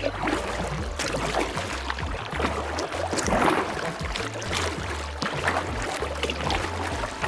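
Creek water splashing and gurgling around a kayak on the move, irregular splashes over a steady low rumble.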